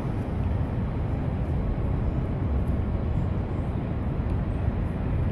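Steady low rumble of downtown street ambience, with no single event standing out.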